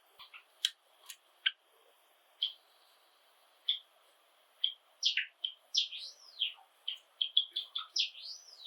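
Pet Java sparrows calling with short, spaced high chips, then from about five seconds in a quicker run of chips and arched, rising-and-falling whistled notes, the pattern of Java sparrow song.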